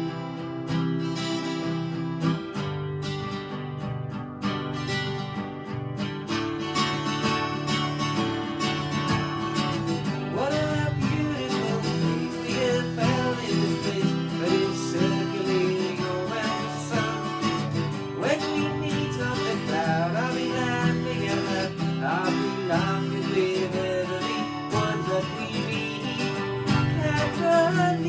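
Music: an acoustic guitar strummed steadily, with a wavering melody line joining about ten seconds in.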